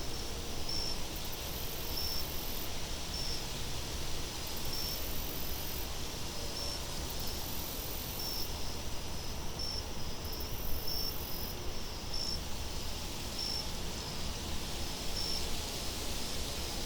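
Crickets chirping in a steady, even rhythm, about one and a half chirps a second, with a higher insect buzz coming and going every couple of seconds, over a steady wind-like hiss and low rumble.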